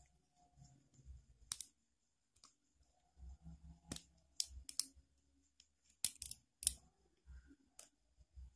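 Scattered sharp clicks and small scrapes of a disposable gas lighter being worked apart by hand to get its spring out, with soft handling knocks between them.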